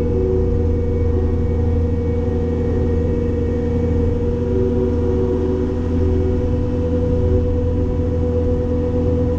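Cat 262D skid steer's diesel engine running steadily at working speed, driving a Loflin open-front hydraulic brush cutter: a deep, even hum with a steady higher tone over it.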